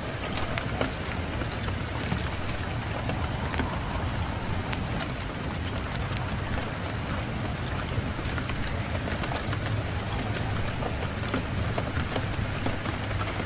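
Fireplace fire crackling with many small sharp pops, over a steady low rumble of wind.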